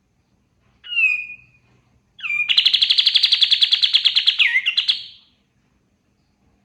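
Kapas tembak songbird singing: a short whistled note about a second in, then a long, fast, rapid-fire trill of about ten notes a second that ends in a couple of sliding notes.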